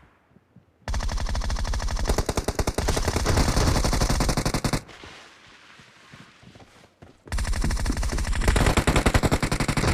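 Automatic gunfire in a shooter video game: a long rapid-fire burst of about four seconds starting about a second in, a quieter pause, then another sustained burst near the end.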